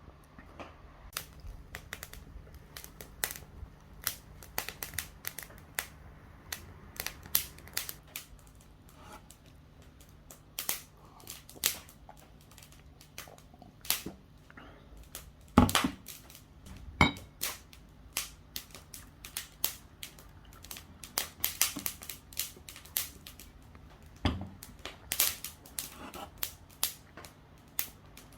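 Wood fire crackling, with irregular sharp pops and snaps, some loud, scattered throughout.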